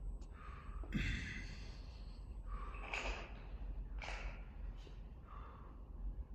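A person breathing hard from exertion mid-workout, with a harsh exhale or gasp roughly once a second. There is a short thud about a second in.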